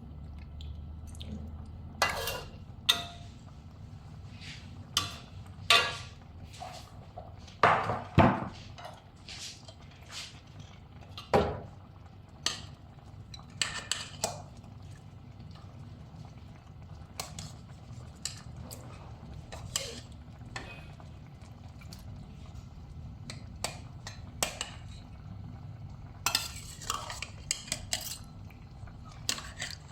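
Metal utensils clanking and clinking against pots and pans in irregular knocks while cooking, over a steady low hum.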